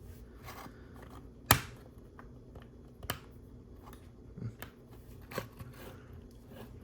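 Plastic LEGO bricks being handled and pressed into place: sharp clicks, the loudest about one and a half seconds in and another about three seconds in, with fainter clicks and rustling between.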